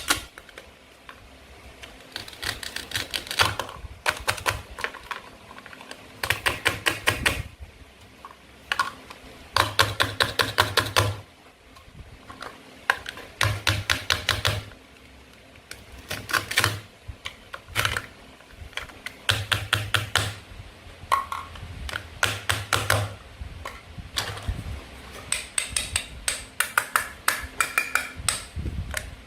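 Toy play-food fruit and vegetables being cut with a toy knife: bursts of rapid clicking, each about a second long, repeated over and over with short pauses between.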